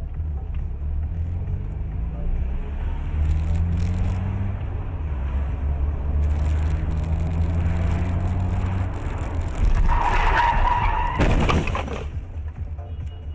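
A car engine accelerates, its pitch rising, then easing and rising again. About ten seconds in, tyres squeal for around two seconds, ending in a harsh burst of noise.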